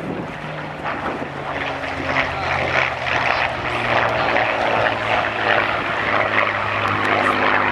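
Supermarine Spitfire's Rolls-Royce Merlin V12 engine with its throaty roar in a fly-by, growing louder as its pitch slowly falls.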